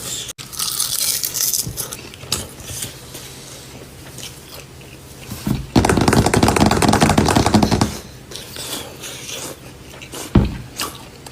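Eating sounds: scattered small clicks and scrapes of utensils on dishes. About halfway through there is a loud crackling stretch of about two seconds, and a single dull thump comes near the end.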